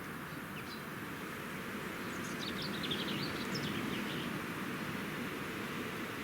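Steady outdoor background noise, with a bird giving a quick run of high chirps for about two seconds partway through.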